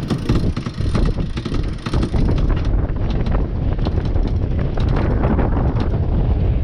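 Wind buffeting the microphone aboard a sailing yacht beating close-hauled, a heavy rumble that gets louder about two seconds in, with a rapid clatter of clicks and rattles over it.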